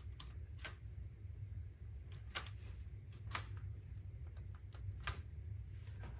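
Scattered light clicks and taps from an N scale model railroad layout, irregular and about ten in all, over a steady low hum.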